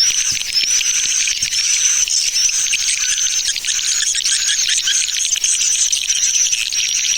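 Swiftlet lure call: dense, continuous high chirping and twittering of many swiftlets, with a brighter chirp repeating about once a second. It is a 'tarik' call, played to draw swiftlets into a nesting house.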